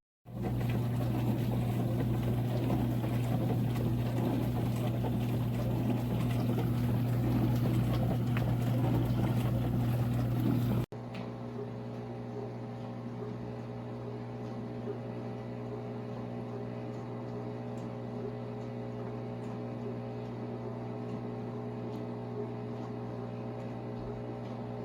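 COMFEE' portable countertop dishwasher running a wash cycle: a steady motor hum under the hiss of water spraying inside. About eleven seconds in, it cuts abruptly to a quieter, steady machine hum.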